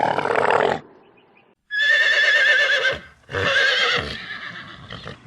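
A horse whinnying twice: two high, quavering calls of about a second each, the second falling away at its end. A low, rough animal call cuts off just under a second in.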